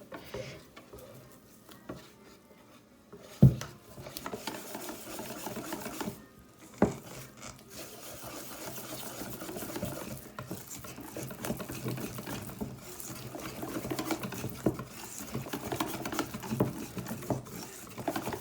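Batter being whisked in a bowl, a continuous scraping and clicking as flour is worked in toward a pancake-batter thickness, with two sharp knocks about three and seven seconds in.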